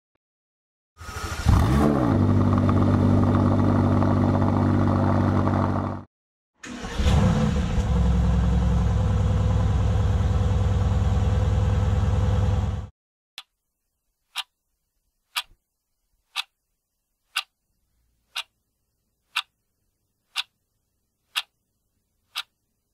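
Mercedes-AMG GT S twin-turbo V8 engine revved in two bursts, each climbing quickly in pitch and then held high and steady before cutting off suddenly. Then a countdown timer ticks about once a second, ten ticks.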